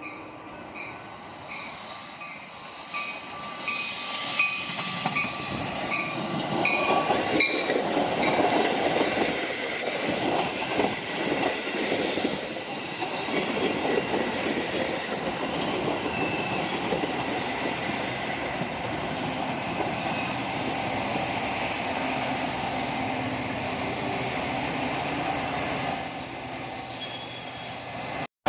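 A train rolling past, its cars rumbling and rattling over the rails for a long stretch, with the wheels squealing high near the end. For the first few seconds a ringing tone repeats about twice a second.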